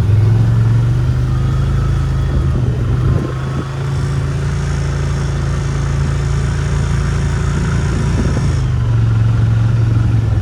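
Vehicle engine idling steadily, its pitch stepping up slightly about four seconds in and dropping back near the end.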